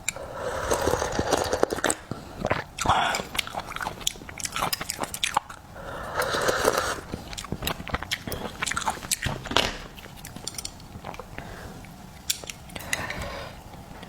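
Close-miked eating of seafood: wet chewing and biting with many sharp clicks, and two longer noisy swells about a second and six seconds in.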